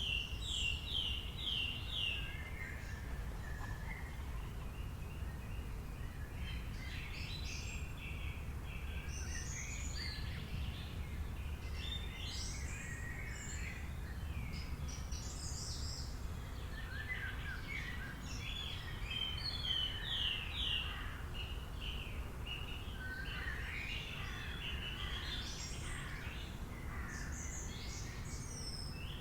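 Several wild birds singing and chirping, with short trills of rapidly repeated notes, over a steady low background rumble.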